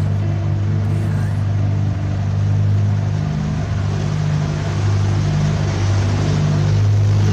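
Boat engine running steadily, a loud, even low hum.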